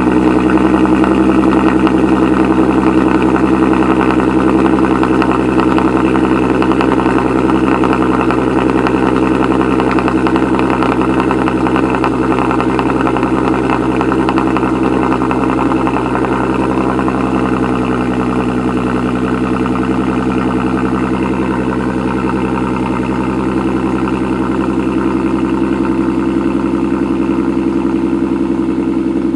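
Volkswagen Golf R32 Mk4's 3.2-litre VR6 idling steadily just after a cold start, through an exhaust with the resonator removed and the flapper valve modded open. The idle eases slightly quieter as it goes.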